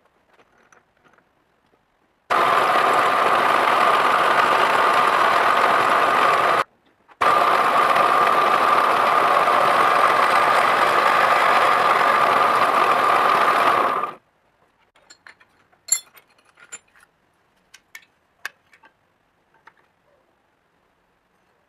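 A power tool's motor running steadily in two long stretches, each starting and stopping abruptly with a brief break between, followed by a few light clicks and taps.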